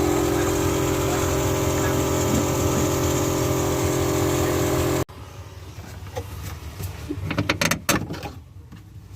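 A motor running steadily with a loud rush of air, which cuts off abruptly about five seconds in; a few clicks and knocks follow.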